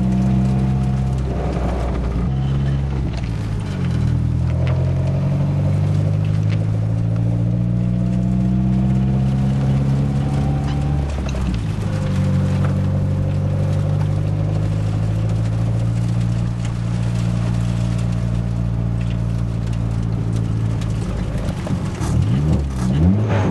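1990 Nissan 240SX engine pulling the car away through the gears: its pitch climbs, drops at gear changes a couple of seconds in and again near the middle, then holds fairly steady at cruise. The car has a loose flywheel, the cause of the knocking noise being checked for.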